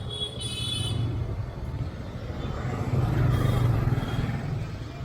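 Motorcycle engine running during a ride through busy street traffic, getting louder about three seconds in. A brief high-pitched tone sounds at the start.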